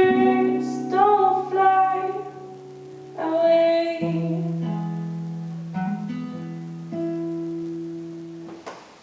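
Guitar chords strummed and left to ring out, the closing bars of a song, fading away toward the end.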